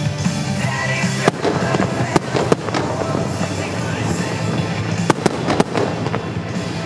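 Aerial fireworks bursting in a string of sharp bangs with crackling between them, over the show's loud music; one cluster of bangs comes about a second in, another near five seconds.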